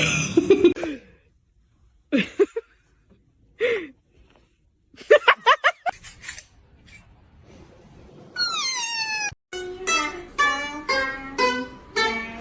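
A cat meowing a few times with gliding pitch, then a quick string of about six short calls. From about eight seconds in, plucked-string music takes over.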